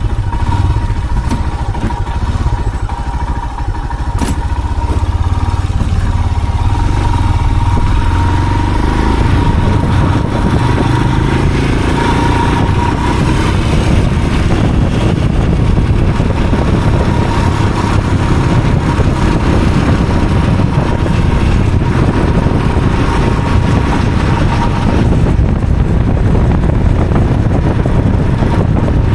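A motor vehicle running steadily on the move, with a constant low rumble and a thin steady whine above it; the engine note fills out about eight seconds in.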